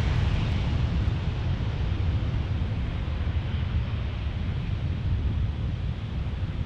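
Jet airliner engine roar with a deep rumble, slowly fading as the aircraft moves away.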